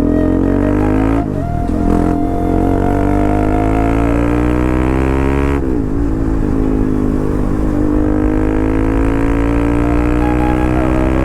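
Bajaj Pulsar RS200's single-cylinder engine and exhaust accelerating hard, the pitch climbing steadily in each gear. There are two upshifts, about a second in and a little past halfway, each a quick drop in pitch before it climbs again.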